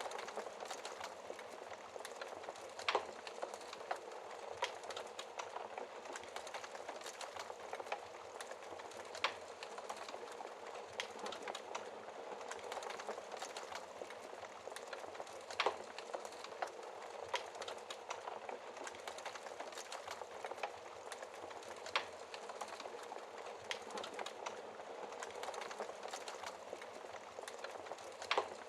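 Wood fire burning in a fireplace: a steady hiss of flames with frequent small crackles and a sharp louder pop every few seconds.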